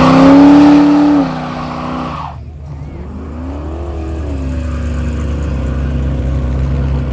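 Car engine held at high revs, dropping off sharply about a second in, then blipped once more before settling to a steady idle.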